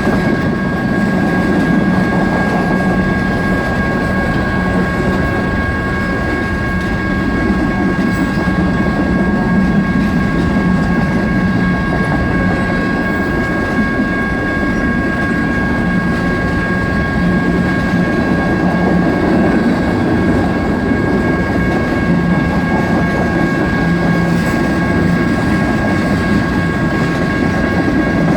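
Freight train's cars rolling steadily through a grade crossing, wheels rumbling on the rails, while the crossing's electronic warning bells ring continuously at several pitches over it.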